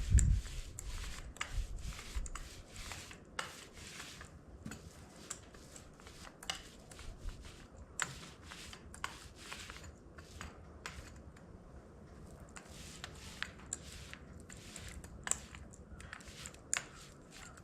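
Paint roller working over a cast-iron tractor weight, giving irregular small sticky clicks and crackles. A low thump comes right at the start.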